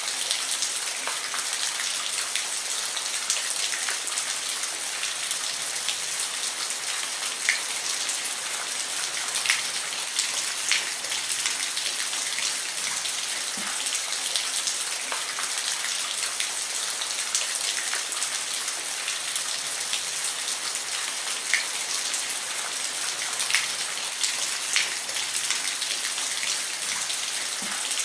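Rain falling on a roof: a steady hiss with scattered louder drops striking close by.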